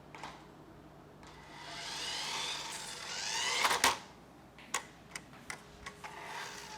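Small electric motor of a battery-powered remote-control toy car whirring as it drives, rising in pitch for a couple of seconds before stopping, then several sharp clicks and the whirring starting again near the end.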